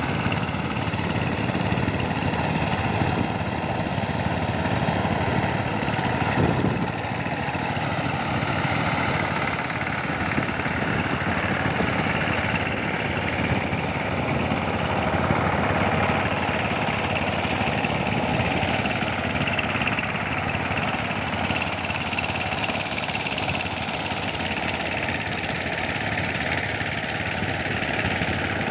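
Power tiller's diesel engine running steadily under load.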